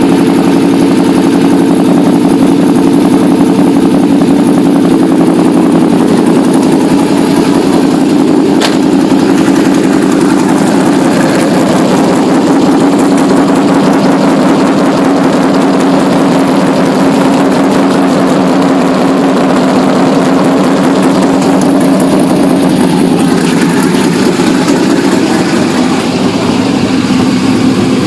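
2000 Pontiac Trans Am WS6's LS1 V8 idling steadily through long-tube headers and Magnaflow Magnapack mufflers, just after starting.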